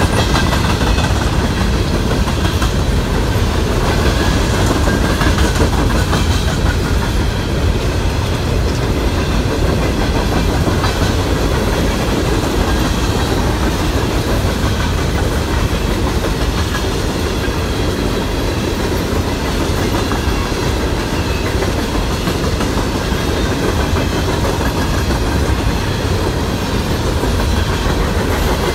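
Norfolk Southern freight train's open-top hopper cars rolling past: a loud, steady rumble and clatter of steel wheels running over the rails.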